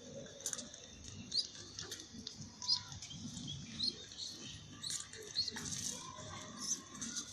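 Pigeon squab making short, high squeaks again and again, about once a second, while its parent feeds it, over soft rustling and scuffling.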